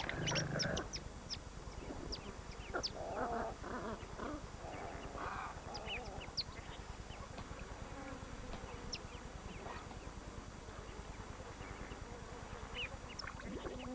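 Wild birds calling at a lake shore: many short, high chirps scattered throughout, with a few lower, rougher calls in the first half.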